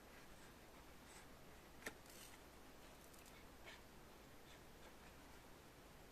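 Near silence: room tone with a few faint scratchy ticks and one short click about two seconds in.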